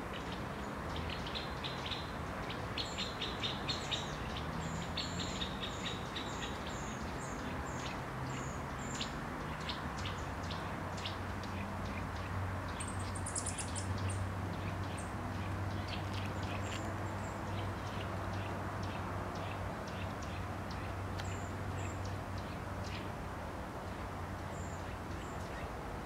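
Small woodland birds calling: many short, high chirps and quick trills, in rapid runs during the first half and sparser later, over a steady background rush. A steady low hum joins about ten seconds in.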